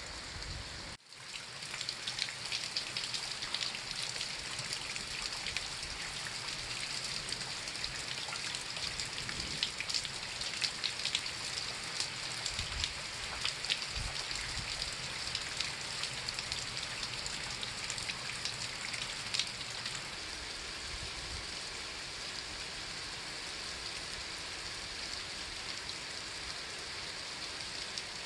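Steady rain falling, a dense hiss with many distinct drops heard as sharp clicks. The sound dips briefly about a second in, then runs on evenly.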